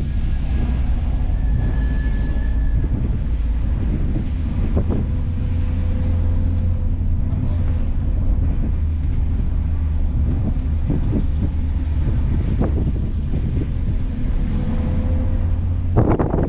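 A car driving, heard from on board: a steady low engine and road drone with some wind noise and a few light clicks. Near the end a louder rushing noise comes in abruptly.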